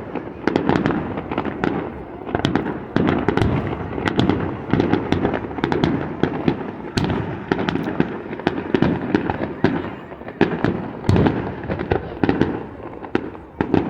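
Fireworks display: a dense, unbroken run of shell bursts and crackling bangs, several a second, over a low rumble.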